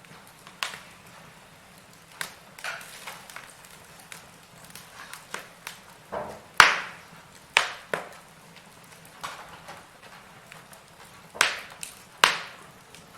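Burning firewood crackling and popping in a fireplace: scattered sharp pops over a soft background hiss, the loudest about six and a half seconds in and two more strong cracks near the end.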